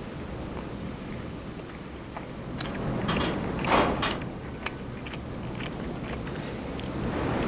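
A person chewing a mouthful of shawarma close to the microphone, with a few soft wet mouth clicks. About three and a half seconds in there is a louder, noisier swell.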